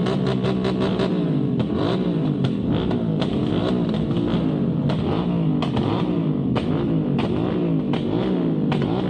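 Motorcycle engine running with its pitch rising and falling over and over, mixed with background music with a drum beat.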